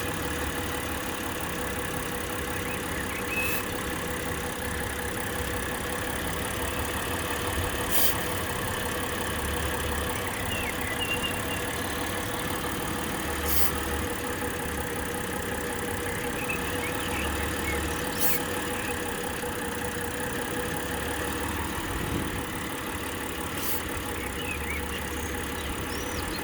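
2000 Mitsubishi Pajero V6 engine idling, its idle wavering with an uneven low throb, while short hisses of spray are shot at the intake manifold about every five seconds to find a vacuum leak; the engine shakes and runs rougher when the spray reaches the leak.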